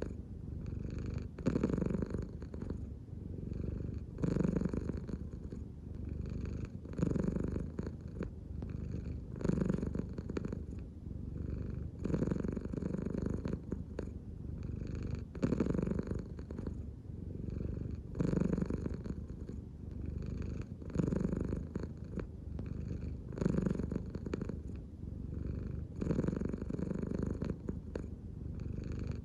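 An American Shorthair cat purring steadily, the purr swelling louder about every two and a half to three seconds with each breath in and out.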